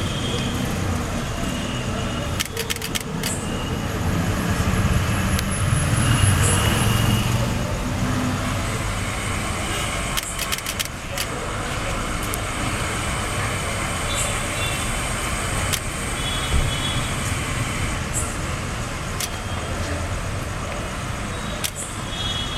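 Steady road traffic running, with a low rumble that swells for a few seconds and a few brief clusters of clicks.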